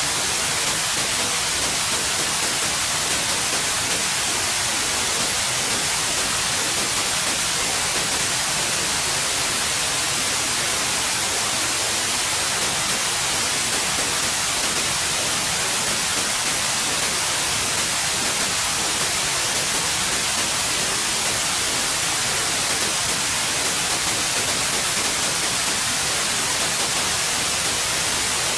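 Steady white noise: an even, unchanging hiss, bright in the treble, with no breaks or changes.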